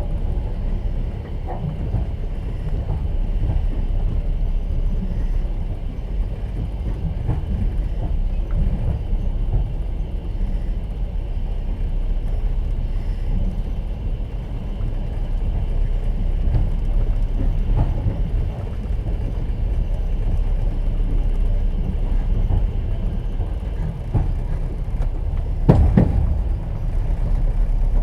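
Inside a moving platskart sleeper carriage: steady low rumble of the train with the clack of wheels over rail joints. A louder knock comes near the end.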